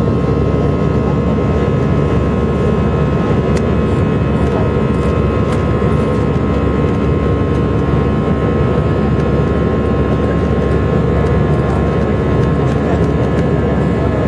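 Airbus A319-111 cabin noise: its CFM56 jet engines and the airflow make a steady, loud noise with several fixed whining tones over it, heard from a passenger seat.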